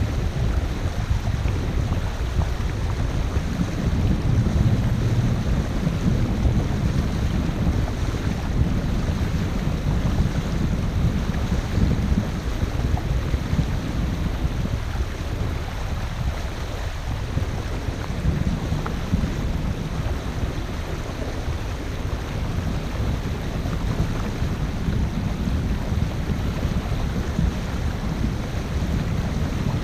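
Wind buffeting the camera's microphone as a boat runs under way, a steady low rumble over the rush of water.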